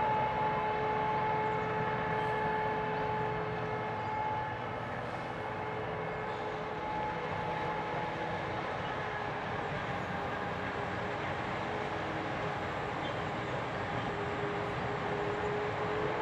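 Heavy harvest machinery running steadily under load, a dense engine noise with a steady high whine over it. The noise eases slightly a few seconds in.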